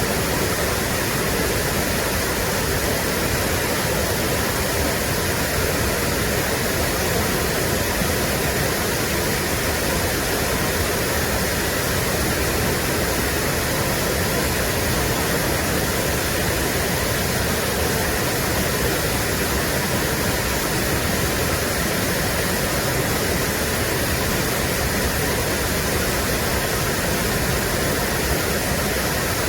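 Mountain stream water rushing over rocks in a valley, a steady, even rush of water.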